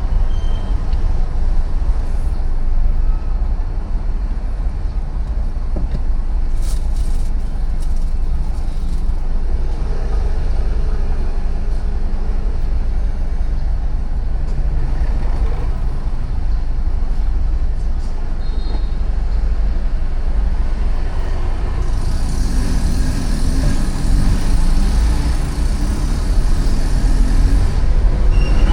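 City street traffic heard while riding along, with passing vehicles over a steady low rumble. About three-quarters of the way through, a hiss swells up and stays louder to the end.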